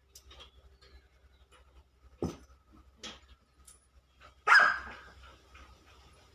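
Dog barking: a few short barks, the last and loudest about four and a half seconds in.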